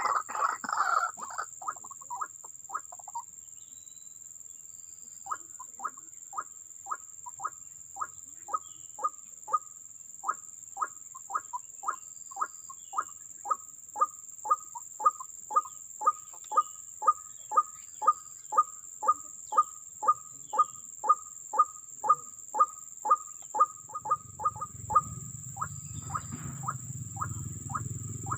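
White-breasted waterhen calling. A fast chattering fades out in the first few seconds, then after a short pause comes a long, monotonous series of short downward 'kruak' notes, about two a second, that grows louder. A low rumble joins near the end.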